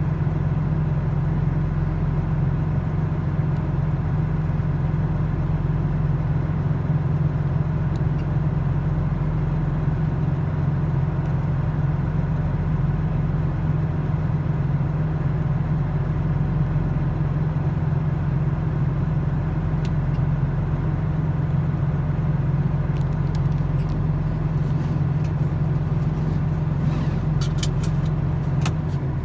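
Steady low hum of a car idling, heard from inside the parked car's cabin, with a few light clicks near the end.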